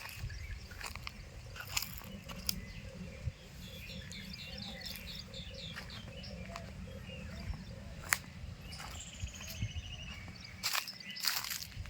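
Birds chirping: a quick series of short high chirps about four seconds in and a trilled run of chirps later on, over a steady low rumble with scattered sharp clicks.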